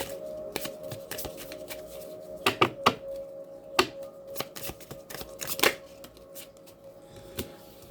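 A deck of oracle or tarot cards being shuffled by hand: an irregular run of quick card flicks and riffles, with a few louder snaps.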